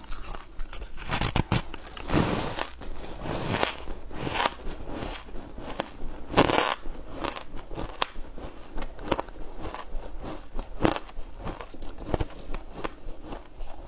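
Close-miked biting and chewing of a white, crumb-coated block of food: irregular crackly crunches, the loudest about six and a half seconds in.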